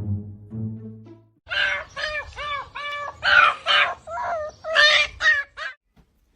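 A short bit of music, then a quick series of about a dozen short, pitched animal calls, each rising and falling, for about four seconds.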